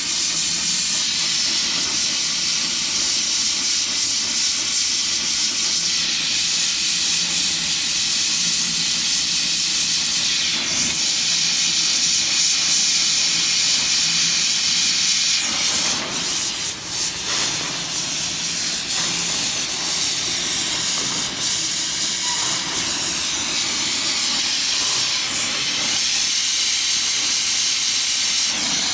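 Gas welding torch flame hissing steadily while header and riser tubes are hand-welded, briefly dipping and changing about halfway through.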